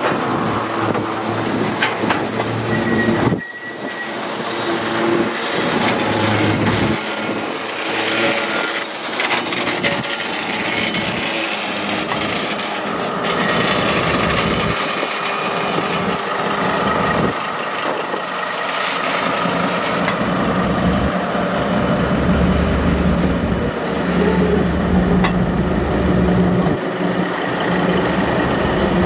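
A diesel-hauled train running on track: continuous wheel and wagon clatter with clicks, and a steady diesel engine drone that grows stronger in the second half.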